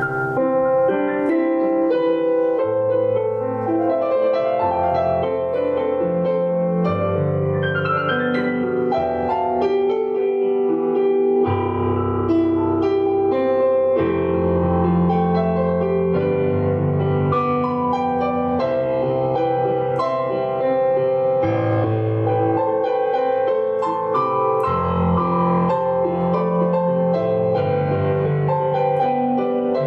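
Slow, calm piano music with held notes over a low bass line that changes every few seconds.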